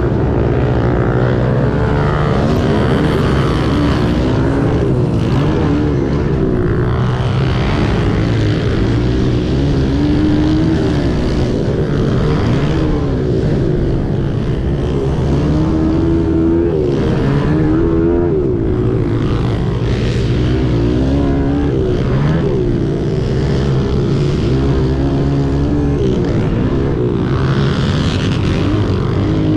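Several small 90cc and 110cc four-stroke pit bike engines racing together, their overlapping engine notes rising and falling as the riders rev and let off. The sound is loud and continuous.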